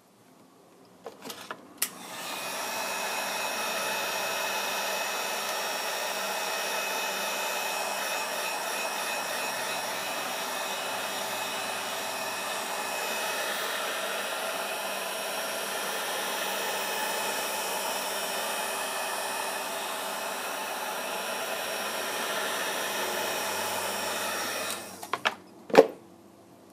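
Heat gun blowing steadily for about twenty-two seconds, started after a few clicks near the start and cut off near the end, followed by a couple of sharp clicks.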